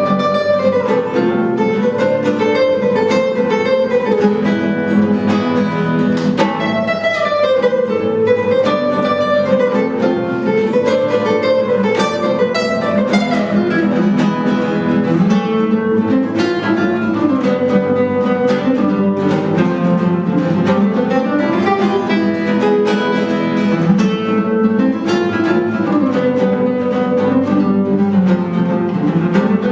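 Two acoustic guitars playing a duet: a plucked melody line moving up and down over a steady picked accompaniment, with flamenco-style strums.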